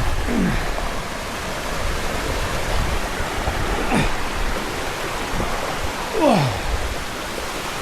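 Waterfall cascading into rock pools, a steady rush of water. A few brief sounds slide downward in pitch over it, the loudest about six seconds in.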